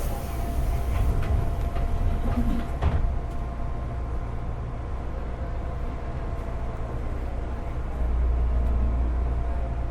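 Interior sound of a JR East 205-series electric motor car with MT61 external-fan traction motors: a steady low rumble with a few clunks in the first three seconds. The rumble grows louder about eight seconds in.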